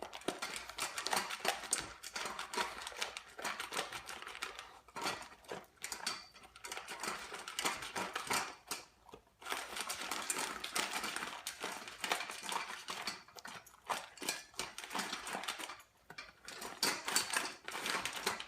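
Dog eating from its food dish with ice cubes mixed into the food: rapid clicking and clattering of ice and food against the bowl, in spurts with a few short pauses.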